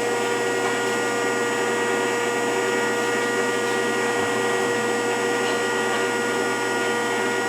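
Rockford 36-inch hydraulic open-side planer's hydraulic pump and motor running steadily: a constant hum with a steady whine.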